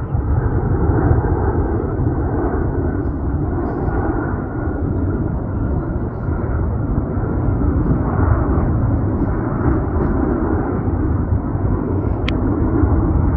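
Airbus A350 jet airliner passing overhead on landing approach, its Rolls-Royce Trent XWB engines giving a steady, deep rumble.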